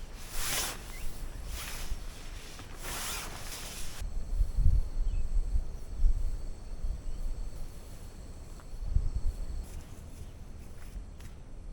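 Camping gear being handled: three short rasping swishes in the first four seconds, then low rumble with a few dull thumps.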